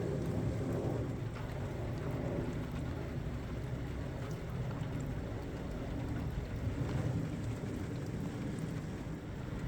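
Steady rain falling, a continuous hiss with a few scattered drops ticking close by.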